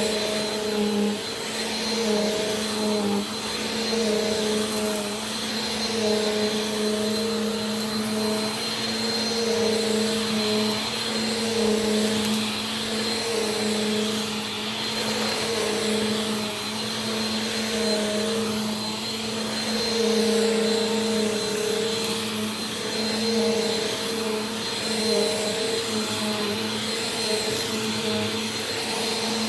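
Bissell PowerForce Compact Turbo upright vacuum cleaner running on carpet: a steady motor whine and rush of air, its pitch wavering a little every second or so as it is pushed back and forth.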